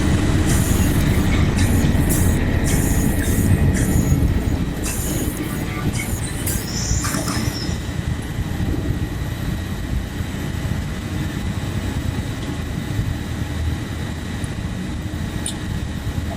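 Loud, steady, heavy low rumble of vehicles and machinery at a car ferry, with scattered metallic clanks and rattles during the first half.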